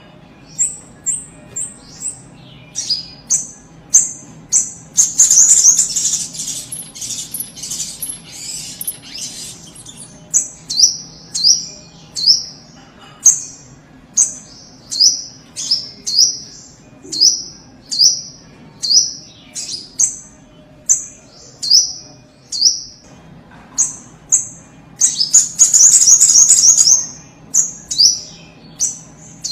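Little spiderhunter (sogok ontong) calling: a sharp, high, falling note repeated about once a second, broken twice by a longer, louder burst of rapid chattering notes, about five seconds in and again around twenty-five seconds.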